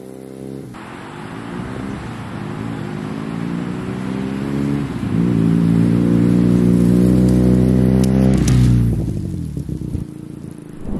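Benelli TNT300 parallel-twin motorcycle engine under throttle, breathing through an aftermarket exhaust taken from a Honda CBR300. It grows louder over the first few seconds, is loudest from about six to eight seconds in, then drops away suddenly near nine seconds, as a bike passing by does. It is a twin with a sound likened to a four-cylinder.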